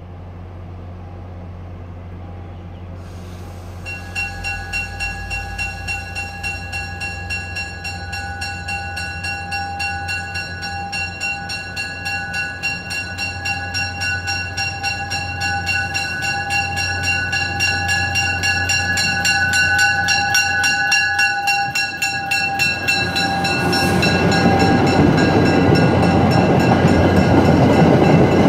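Commuter train approaching with a low diesel rumble from its pushing locomotive; about four seconds in a bell starts ringing rapidly and keeps on until it fades out near the end. In the last few seconds the coaches roll past and the wheel and rail noise grows loud.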